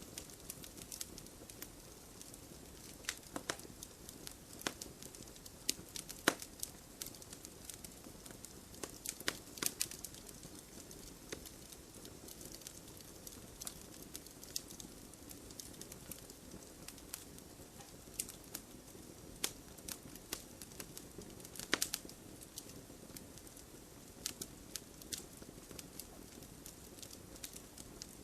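Wood fire burning in a fireplace, crackling with irregular sharp pops over a soft steady rush of flame.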